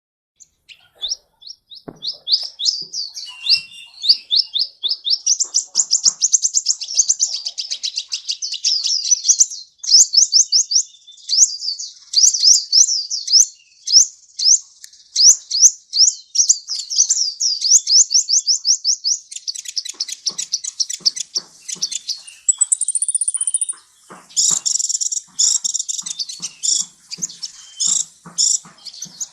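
Kolibri (a sunbird, as Indonesian bird-keepers use the name) singing: a long, fast series of high sweeping notes, about four to five a second, starting about a second in. After about two-thirds of the way through the song turns choppier, with sharp clipped notes, a brief high buzz and a dense run of notes.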